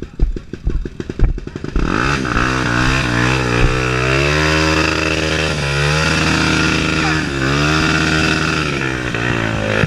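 Dirt bike engine thumping unevenly at low revs, then revving hard from about two seconds in. The pitch climbs and drops several times as the throttle opens and closes and the gears change.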